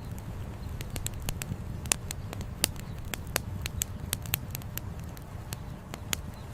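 Campfire burning, its firewood crackling with frequent sharp, irregular pops over a steady low rumble.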